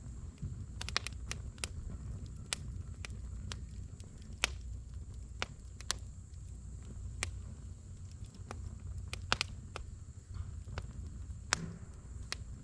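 Wood fire crackling in a fire pit: irregular sharp pops and snaps, a couple each second, over a low steady rumble.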